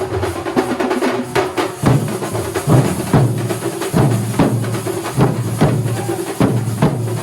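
Kerala thambolam drum ensemble playing: deep drum strokes boom about twice a second from about two seconds in, over a dense wash of higher percussion.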